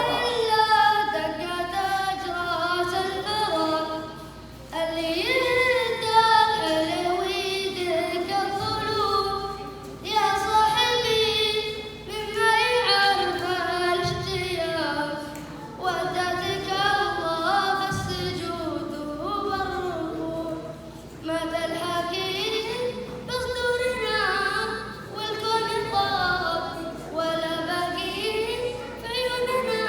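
A schoolboy singing solo and unaccompanied, in long drawn-out phrases whose pitch bends and glides, with short breaks for breath between them.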